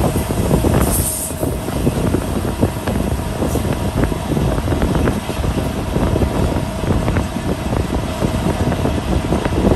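Passenger train running along the track: a steady rumble and rattle of the wheels on the rails with many small knocks throughout.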